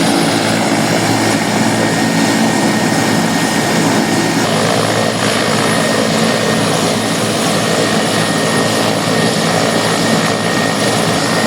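Large helicopter in flight: its rotor and engines make a loud, steady drone with a thin, steady high whine over it.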